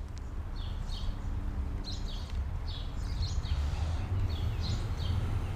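Birds chirping in a string of short high notes, several a second, over a steady low rumble.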